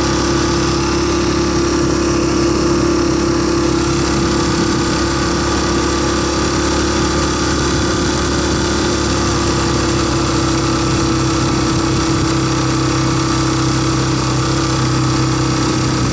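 Dirt bike's single-cylinder four-stroke engine running at a steady speed under a rider. About ten seconds in the note shifts slightly lower.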